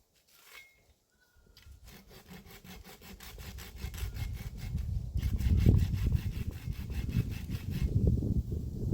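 Hand saw cutting through a piece of firewood, the rapid rasping strokes starting about a second and a half in and growing louder.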